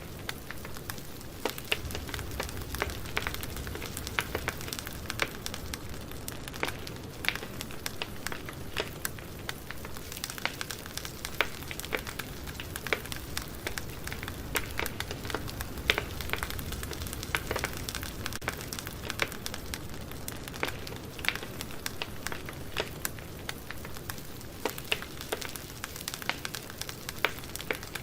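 Campfire burning: wood crackling and popping in frequent irregular snaps over a steady low rush of the flames.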